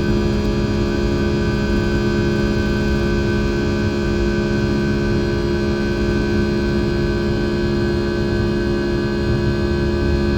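Rolls-Royce RB211-535E4B turbofans of a Boeing 757-200 running at a steady power setting, heard from inside the passenger cabin: a low rumble with several steady whining tones over it.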